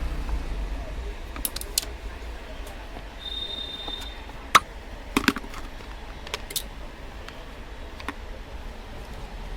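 Scattered sharp clicks and taps of small parts and tools being handled, over a low steady hum, with a brief high tone about three seconds in.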